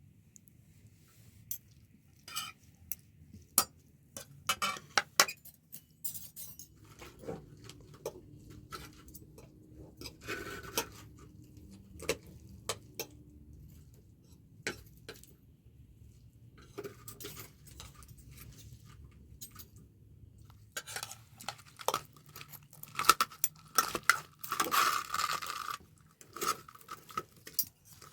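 Dishes and metal utensils clinking and knocking against each other in scattered irregular strikes, with a busier run of clatter and a ringing metallic tone near the end.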